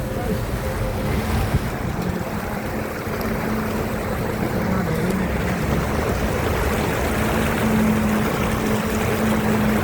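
Steady rush of water, with a steady low hum that grows stronger near the end.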